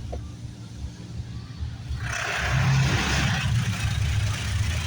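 High-pressure water jets of an automatic car wash spraying against a car, a hiss that comes in about two seconds in, over a steady low rumble.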